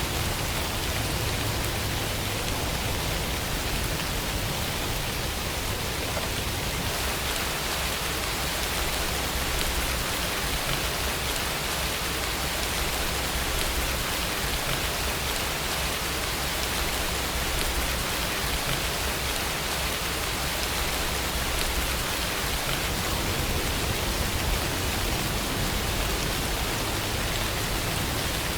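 Steady rainfall, a dense even hiss of rain falling on surfaces.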